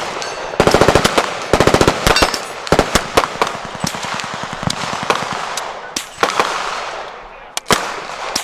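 Fully automatic gunfire: two short, rapid bursts about a second apart near the start, followed by scattered single shots and short strings of fire.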